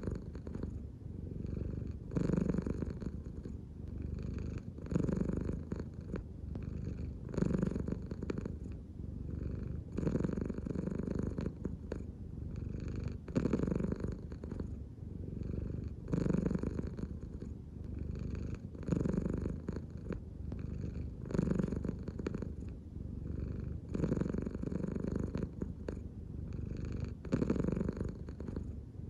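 An American Shorthair cat purring steadily, the purr swelling louder about every two and a half to three seconds with each breath. It is the purr of a relaxed cat breathing deeply from the belly.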